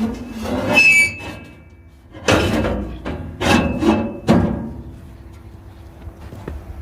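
Firebricks and tools being handled while building a brick wood stove: a short high squeak about a second in, then three heavy knocks and scrapes, after which it goes quieter.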